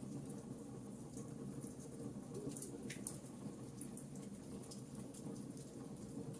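Wood fire crackling in a fireplace: frequent small, sharp crackles and pops over a low, steady rumble of the flames.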